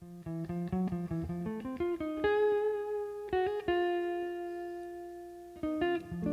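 Solo guitar playing an unaccompanied intro: a quick run of single plucked notes, then a few notes left to ring and slowly fade, and a couple more quick notes near the end.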